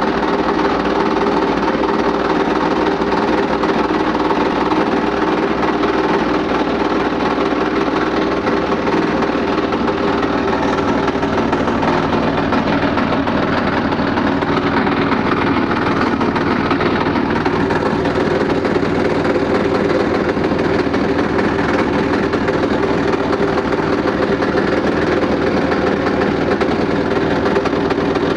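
Washing machine running with a loud, steady mechanical noise, the abnormal noise it is being checked for; the low end deepens about a third of the way in.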